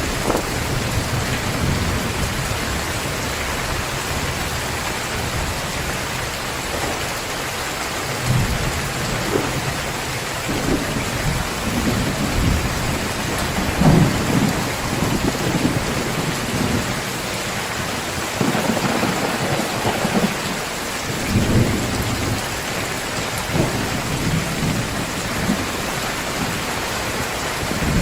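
Heavy rain pouring steadily, with thunder rumbling low several times, loudest about halfway through.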